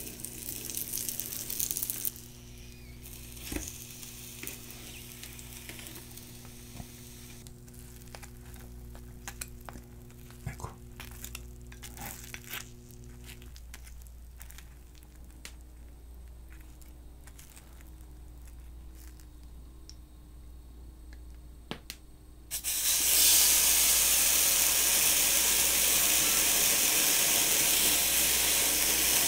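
Rice cake (kirimochi) coated in red chilli-paste tteokkochi sauce sizzling in a hot frying pan. The loud, steady sizzle starts suddenly about 22 seconds in, as the sauce hits the hot pan. Before it, a quieter stretch with scattered light clicks of chopsticks.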